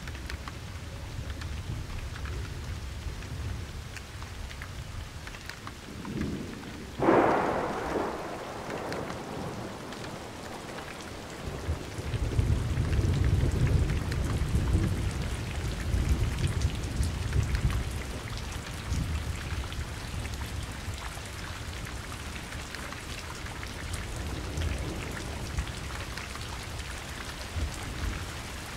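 Steady rain with a thunderstorm: a sharp, loud thunderclap about seven seconds in, then a long low rumble of thunder that rolls on for several seconds before the rain alone carries on.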